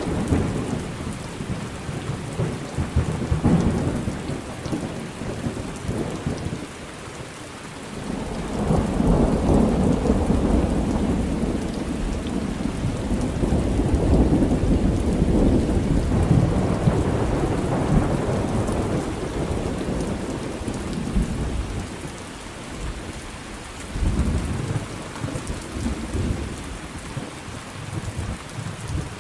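Thunder rumbling over steady rain. A roll of thunder fades in the first few seconds, a long roll builds about eight seconds in and dies away after about twenty, and another starts near the end.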